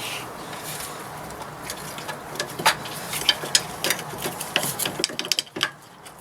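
Work on a car's rear brake caliper: a steady mechanical whirr with many sharp metallic clicks and clinks, which stops about five and a half seconds in.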